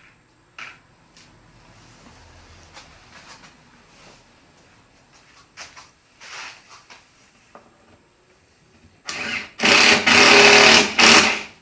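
Power drill driving a screw into wood: a short blip of the motor, then a run of about two seconds near the end. Before it, a few light knocks and clicks of handling.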